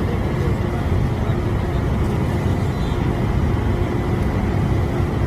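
Locomotive running with a steady low rumble and a constant hum.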